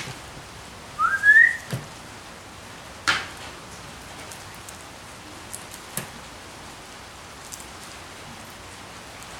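A short, high whistle rising in pitch about a second in, followed by a few faint clicks over a steady low hiss.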